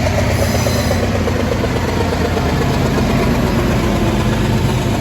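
Freight train passing, its diesel locomotive engines running with a steady low drone.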